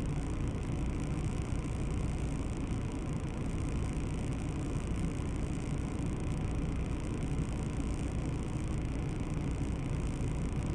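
Steady low rumble of a car on the move, engine and road noise with no distinct events.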